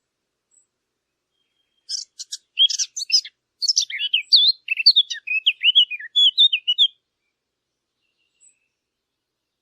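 A songbird singing one long, varied phrase of quick chirps, whistles and trills, starting about two seconds in and stopping about five seconds later.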